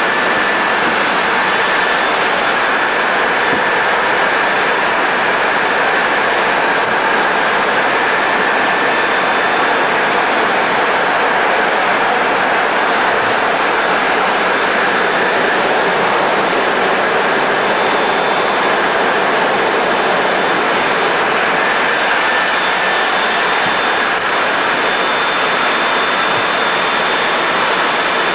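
Steady jet engine and rushing-air noise inside a Boeing 737-200 freighter, whose Pratt & Whitney JT8D turbofans drive it, with faint high steady whines running through it.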